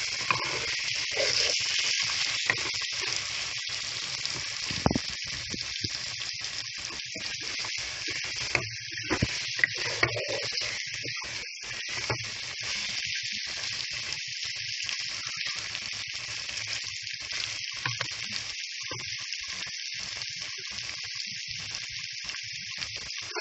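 Chopped hilsa fish roe frying in hot oil with onions and spices in a pan, a steady sizzle, with a few sharp knocks as it is stirred, one about five seconds in and three close together near the middle.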